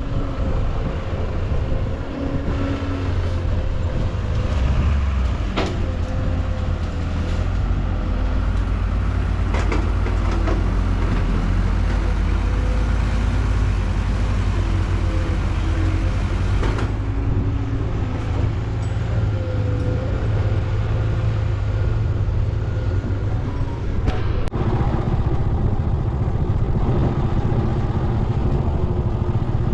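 Heavy diesel earthmoving machinery running steadily with a deep engine rumble, and a few sharp knocks along the way.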